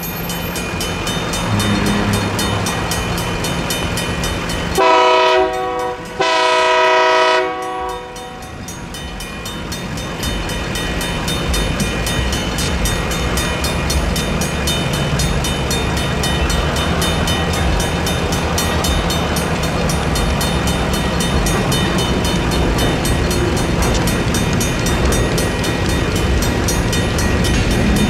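Safetran mechanical crossing bells ringing steadily. About five seconds in, the diesel locomotive sounds two horn blasts of about a second each. Afterwards the low rumble of the GP38N locomotive and its freight cars grows louder as the train nears and crosses.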